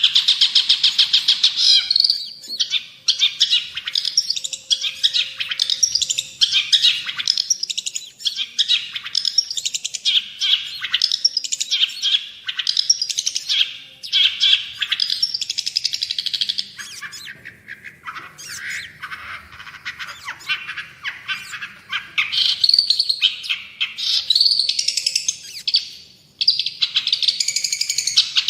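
Long-tailed shrike (cendet) singing in full voice: a rapid, varied chattering song of fast repeated notes and trills, with a brief pause near the end.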